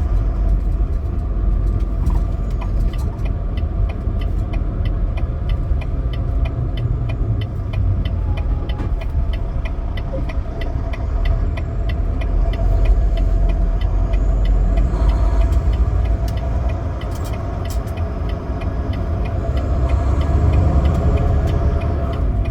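Semi truck running down the road, heard from inside the cab: a steady low engine and road rumble, with a fast, even ticking over it for about the first half.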